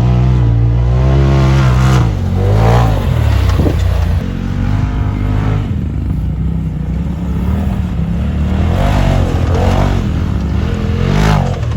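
Vehicle engine running hard and revving, its pitch rising and falling several times.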